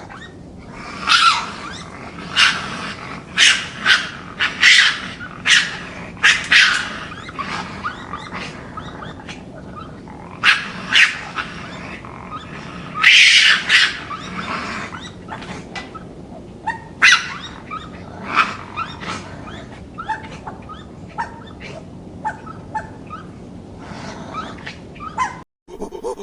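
A canine barking: about fifteen short, sharp calls at irregular intervals, thinning to fainter ones in the last few seconds.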